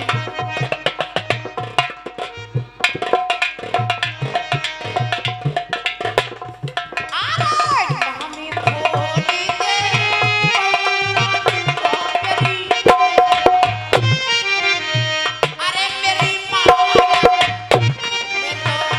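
Instrumental interlude of Dhola folk music: a hand drum keeps a steady rhythm under a melodic instrument line that slides between notes.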